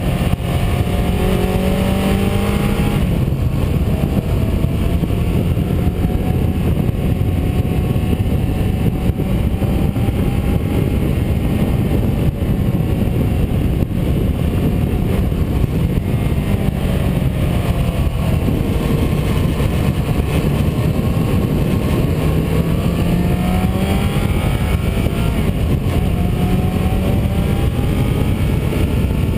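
Car engine running under load along with tyre and road noise, its note rising and falling several times as the throttle opens and closes.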